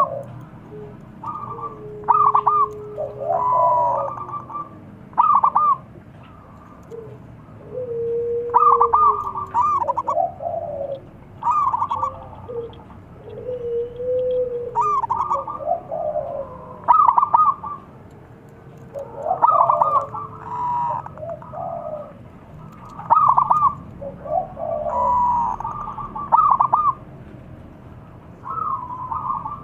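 Zebra doves (perkutut) cooing: phrases of quick, staccato coos come one after another every couple of seconds, mixed with lower, drawn-out notes that slide down in pitch.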